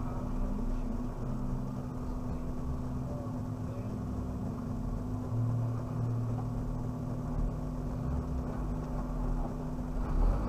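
Suzuki Jimny's engine running steadily as it drives off-road, a low drone with a constant hum through it.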